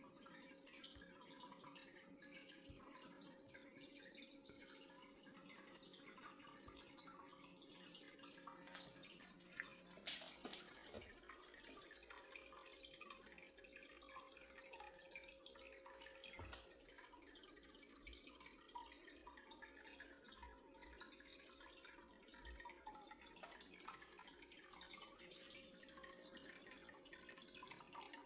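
Near silence: faint room tone with a steady low hum and scattered faint ticks, with one louder click about ten seconds in.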